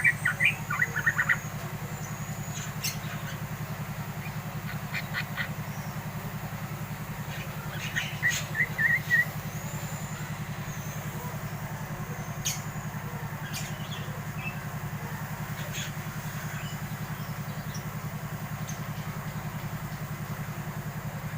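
Young yellow-vented bulbul giving short bursts of chattering chirps near the start, around five seconds in, and again around eight to nine seconds in: the loud calls of a bird coming into adulthood. A steady low machine hum runs underneath throughout.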